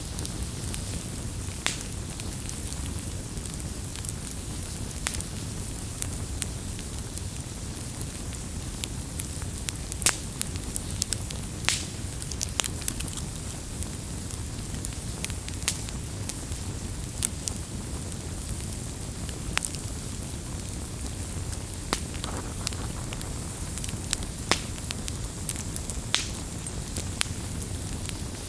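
Campfire burning with a steady low rumble and hiss, and frequent irregular crackles and pops of burning wood.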